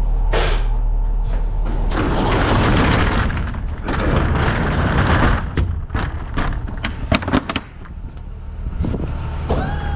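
A sliding door rattling and rushing along, then a quick run of sharp metallic clicks and clanks; near the end a steady whine starts.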